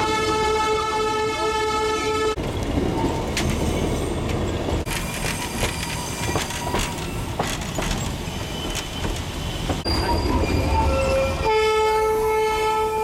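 Darjeeling Himalayan Railway toy train running, heard from on board: its horn blows one long blast for about two and a half seconds at the start and again for about a second and a half near the end, with wheels rumbling and knocking on the track in between.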